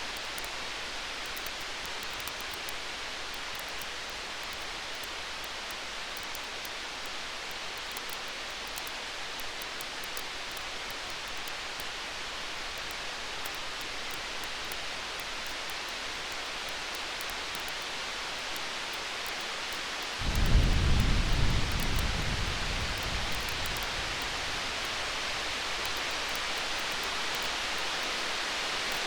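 Campfire crackling lightly over a steady hiss, with a low rumble of distant thunder about twenty seconds in that fades away over a few seconds.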